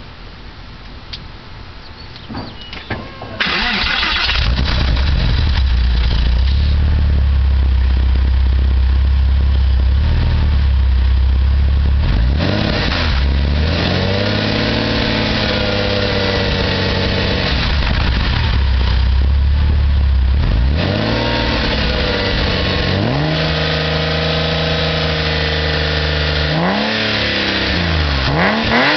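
1999 Porsche 911 Carrera 2's flat-six engine with custom Spintech mufflers starting about three and a half seconds in and running at a fast, steady idle. Later it is revved and let back down three times, with two quick blips near the end, and settles to a lower idle in between.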